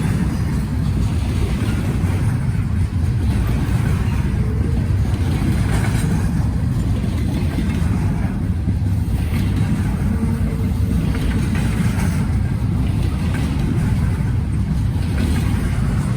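Freight train rolling past in a steady, unbroken rumble, mixed with wind buffeting the microphone.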